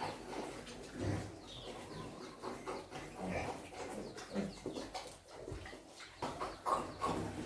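Farm animals calling in short, irregular bursts.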